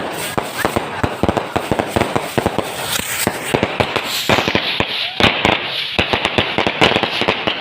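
Fireworks going off in a dense, irregular barrage of sharp bangs and crackling, several bangs a second.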